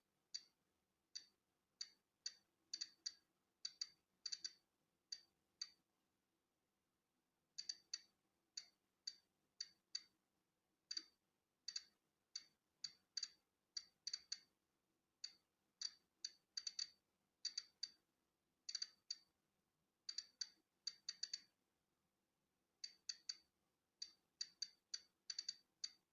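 Polon EKO-C digital Geiger counter clicking at random, irregular intervals, each click marking a detected particle of natural background radiation. The clicks come in uneven bunches of a few a second with occasional pauses of a second or two, over near silence.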